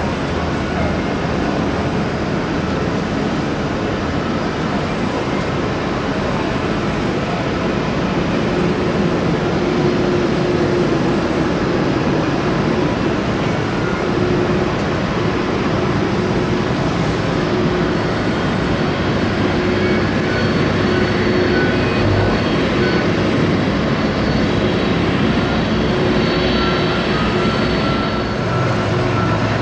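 Jet engines of a Boeing 767 running steadily, a loud even rush with a faint high whine, growing slightly louder about eight seconds in.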